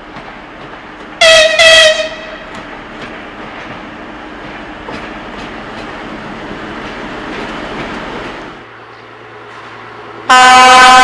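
Train horn sounding two short blasts about a second in, followed by the running noise of a train with the light clicking of wheels on rail joints. About ten seconds in, a loud long horn blast of several tones at once starts and holds.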